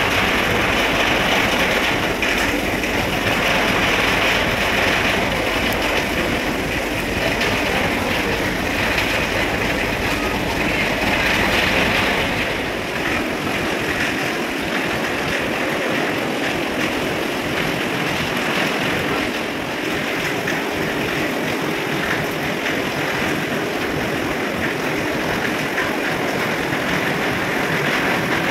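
Steady mechanical rumble and hiss of a large passenger ship's engines as it manoeuvres to berth; the low rumble eases about 13 seconds in.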